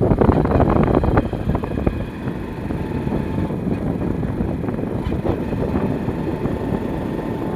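Road and wind noise from a moving vehicle, a steady rumble and hiss with wind buffeting the microphone. It is rougher and louder for the first two seconds, then settles.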